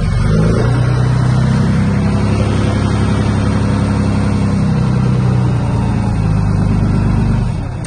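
Heavy diesel earthmoving engine running hard under load, steady, easing off near the end.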